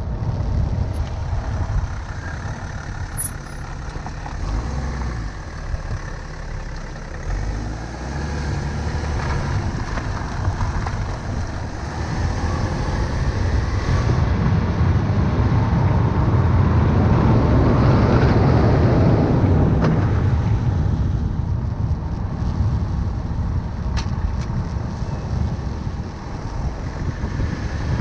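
Tyre and road noise with wind rush, heard close to the front wheel of a moving car: a steady low rumble that swells louder about two-thirds of the way through, then eases near the end.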